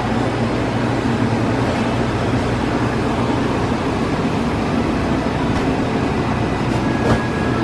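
Motorcycle on the move: engine running under a steady rush of wind noise, with a short sharp click about seven seconds in.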